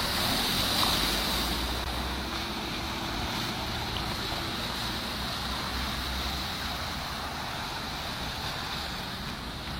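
Steady outdoor noise of wind buffeting the microphone over a rush of water.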